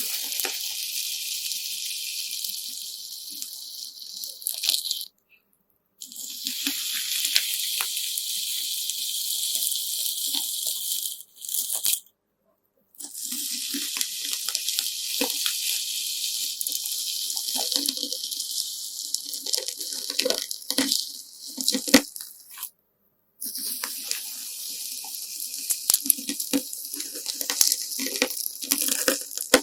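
Homemade slime mixed with coloured sand being squeezed and kneaded by hand: a crunchy, fizzing crackle with small squelchy pops. It comes in several stretches, each cut off abruptly by a brief silence.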